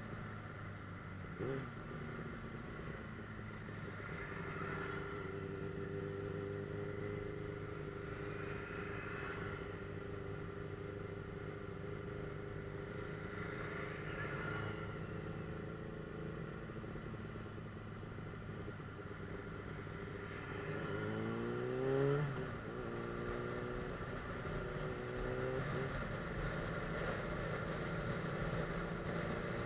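Suzuki GSF 600 Bandit S inline-four engine pulling at a steady cruise. About two-thirds of the way in it revs up sharply, then settles and rises again briefly.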